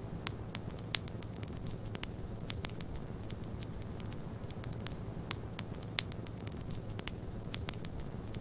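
Wood fire crackling, with many sharp, irregular pops, over a steady low rush of snowstorm wind.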